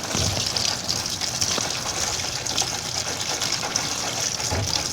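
Water gushing steadily into a washing machine as it fills.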